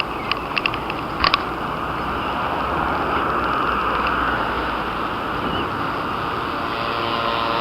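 Busy city-square ambience: a steady rushing noise like traffic, with a few sharp clicks in the first second and a half.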